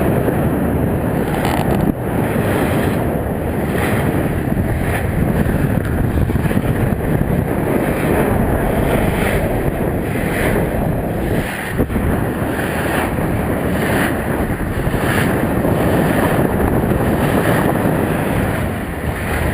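Steady wind buffeting the microphone aboard a sailboat under way, with water rushing and washing along the hull.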